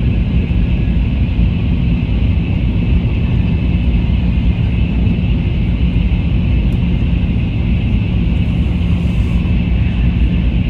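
Taiwan High Speed Rail THSR 700T train running at speed, a steady low rumble and rushing noise with a higher hiss over it, unchanging throughout.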